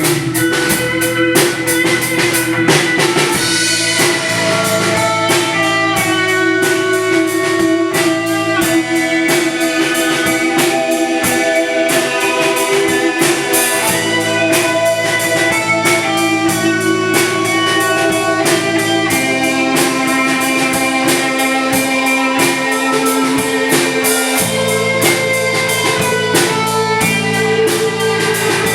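Live rock band playing an instrumental passage with no vocals: a drum kit keeps a steady, driving beat under a sustained melody line, over a bass part that changes note about every five seconds.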